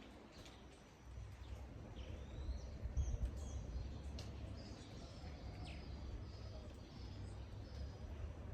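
Birds chirping and calling over scattered sharp drips of rain, with a low rumble underneath.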